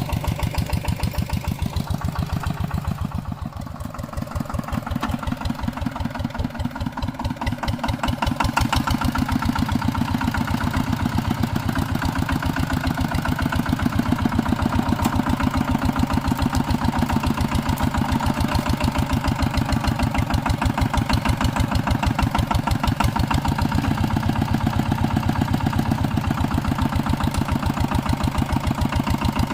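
Walking tractor's engine running with a steady, even chug. It eases off briefly about three seconds in, then picks up again and runs a little louder from about eight seconds in.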